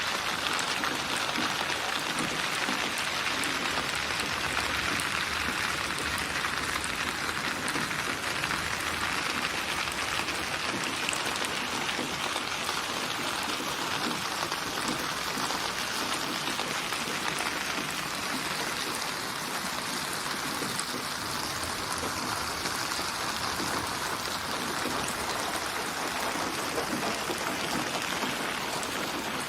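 Steady rainfall: a constant hiss of many fine drops landing, even in level throughout.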